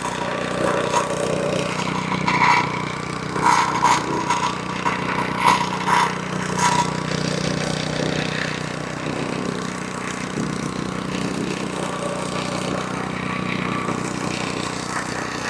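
VEVOR plate compactor's 78.5cc single-cylinder gas engine running steadily while the plate vibrates over freshly laid driveway stone, with a few short, sharp clacks in the first half.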